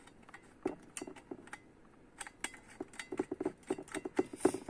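Light metal clicks and taps from trumpet valve pistons being turned in their casings until the valve guides lock into place. The clicks are irregular, sparse at first and more frequent in the second half.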